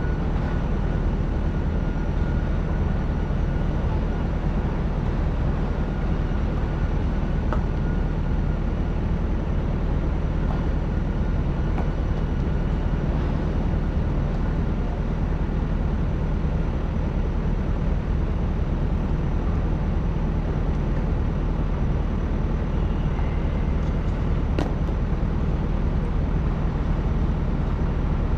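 Excavator's diesel engine running steadily under digging load, with a few faint knocks.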